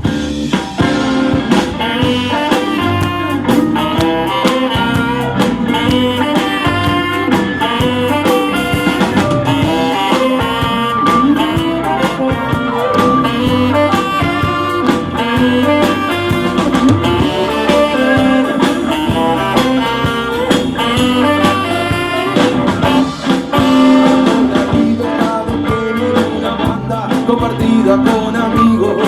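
Blues band playing, with a melodic lead line over a steady drum beat.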